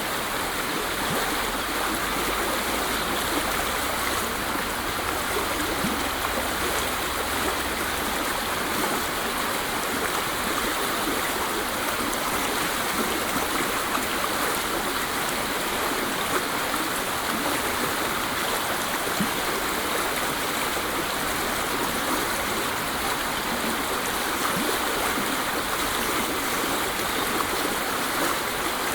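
Waterfall: water falling and rushing in a steady, unbroken hiss with no pauses or changes.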